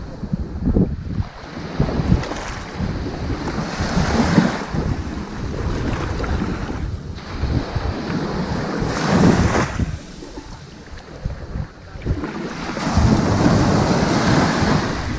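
Ocean waves breaking and washing up on a sandy beach, a steady hiss of surf that swells every few seconds, with a quieter lull near the middle.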